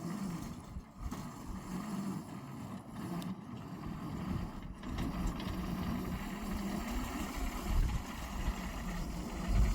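A small engine running steadily, with a low rumble that swells near the end.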